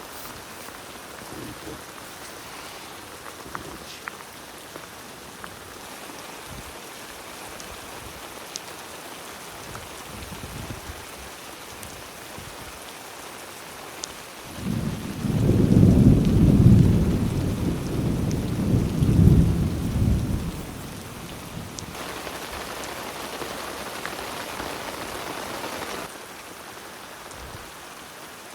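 Steady rain falling, with scattered sharp drop ticks. About halfway through, a low rumble of thunder rolls for about six seconds, the loudest thing here. Later the rain gets louder for a few seconds, then eases back.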